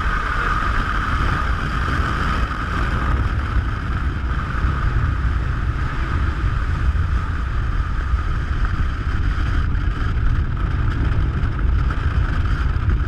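Storm noise aboard a ship in heavy seas: a steady deep rumble of wind and water with wind buffeting the microphone. A high steady whine is strongest in the first few seconds.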